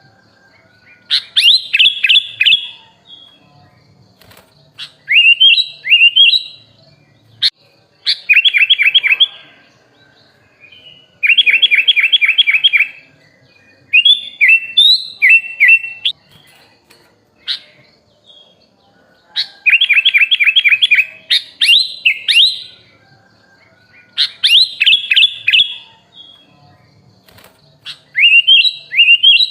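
Sooty-headed bulbul (kutilang) singing a masteran song: about ten short phrases of quick, repeated chirping notes, each a second or two long, with brief pauses between them.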